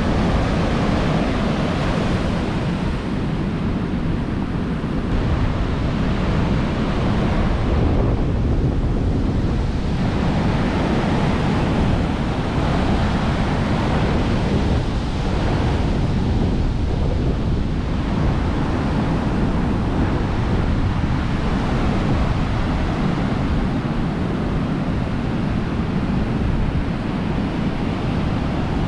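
Storm surf breaking on a sandy beach, with strong wind buffeting the microphone, a steady loud rush throughout.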